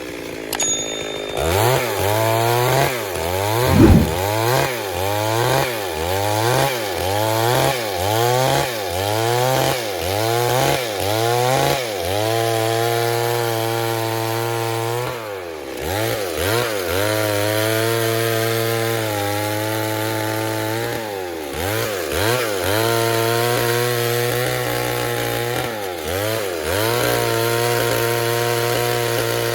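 Stihl MS 382 two-stroke chainsaw milling a log lengthwise. For about the first ten seconds the engine revs rise and fall roughly once a second. After that it holds a steady high speed in the cut, dipping briefly a few times, with a sharp knock about four seconds in.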